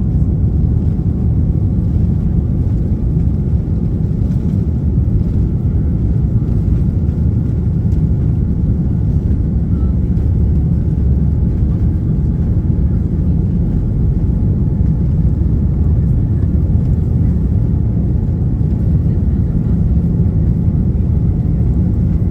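Boeing 787 jet engines at takeoff power: a loud, steady, low rumble that holds even throughout.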